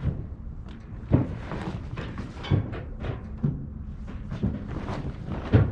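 A heavy steel tarp being pulled and shifted over a load on a flatbed: irregular dull thumps and rustling, the loudest thump a little after a second in and another near the end.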